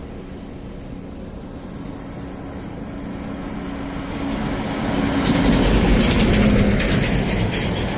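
A heavy truck passing on a highway: low engine note and tyre noise build to a peak about six seconds in, the engine note dropping in pitch as it goes by, then fade.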